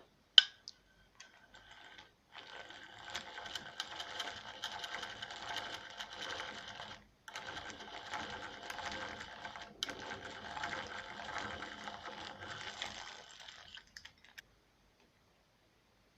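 A woodworking tool working on wood: a sharp click about half a second in, then a continuous fast scraping sound for about eleven seconds, with two brief breaks.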